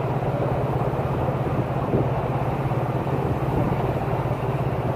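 A semi-truck's diesel engine running, heard inside the cab as a steady, even low drone with a fine regular pulse.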